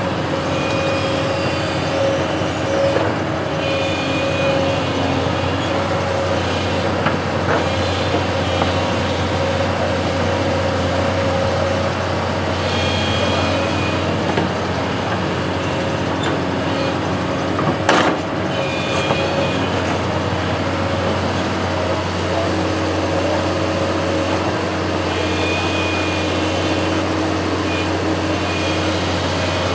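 Construction machine's engine running steadily, with a high whine that comes and goes and one sharp clank about eighteen seconds in.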